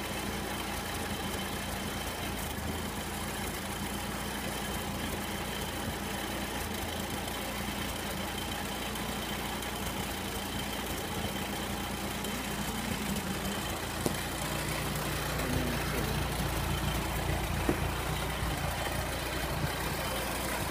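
Freshly rebuilt Sunbeam Alpine four-cylinder engine idling steadily on a test bench. About two-thirds of the way through there is a single click, after which the engine's note shifts slightly lower and a little louder.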